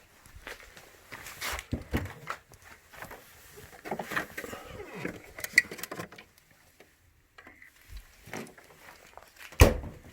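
Irregular knocks, rustling and short clatters of things being handled or moved about, with one sharp knock near the end.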